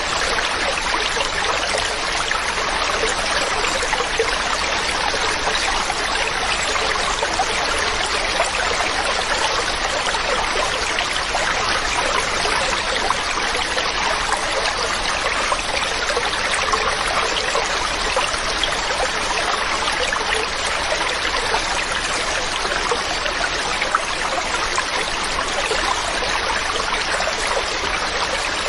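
Mountain stream running steadily over rocks, an even rushing and trickling of water.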